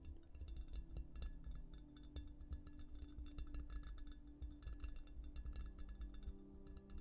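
Fingernails scratching and tapping on textured glass close to the microphone: a dense, irregular run of sharp clicks and scrapes. Soft ambient music with long held tones plays underneath.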